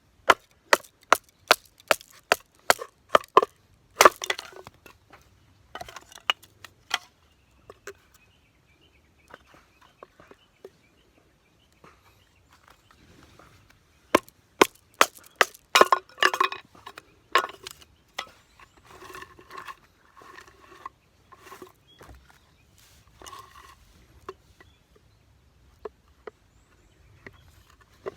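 Firewood being split by batoning a knife through it: two runs of sharp wooden knocks, about two a second, with quieter scraping and rustling of wood between them.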